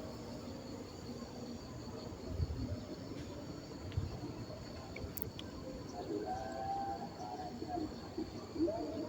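Insects droning steadily at a high pitch, over a low rumble of wind on the microphone.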